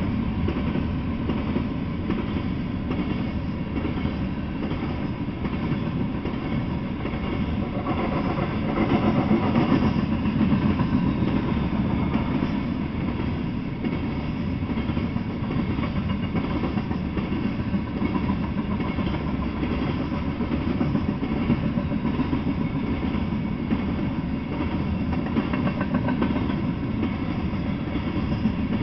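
Freight train of covered hopper cars rolling past: a steady rumble of steel wheels on the rails, a little louder about eight to eleven seconds in.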